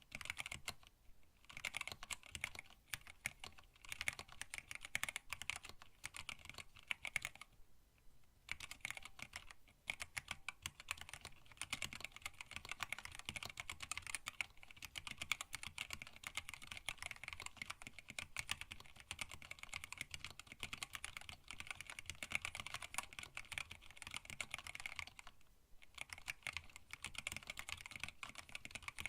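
Typing on a hand-wired split mechanical keyboard in a stacked acrylic case, fitted with Tealios linear switches and blank PBT keycaps: a fast, steady run of keystroke clacks, with brief pauses about a second in, near eight seconds and near the end.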